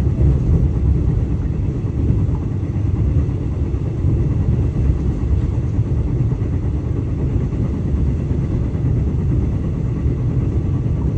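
Steady low rumble of a KTM passenger train in motion, heard from inside the coach.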